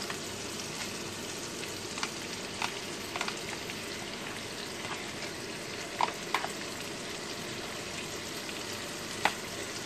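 Sausage slices and mushrooms sizzling steadily in fat in a frying pan as precooked shredded cabbage is spooned in. A metal spoon clicks sharply a few times as it works the cabbage in.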